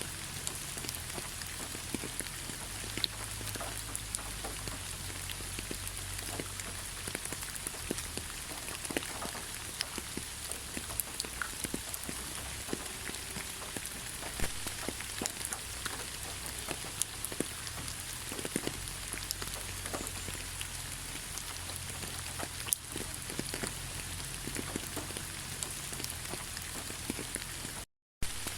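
Steady rain falling through a pine forest: an even hiss with many separate drops ticking close by. The sound cuts out for a split second near the end.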